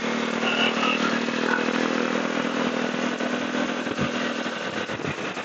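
Motorcycle engine running while riding, with a steady engine tone over road and wind noise. The tone drops away about four and a half seconds in, leaving uneven thumps and rushing noise.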